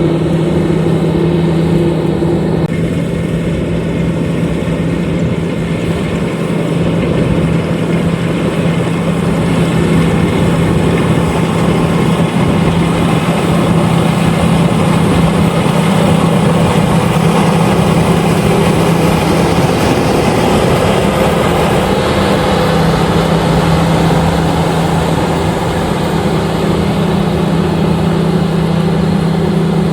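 LOVOL RG130EVO combine harvester running steadily, a constant engine drone with mechanical noise over it; the engine note wavers briefly about two-thirds of the way through.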